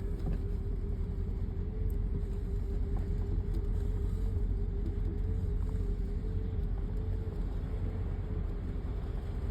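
Vehicle engine running steadily at low speed, a constant low rumble with a steady hum above it.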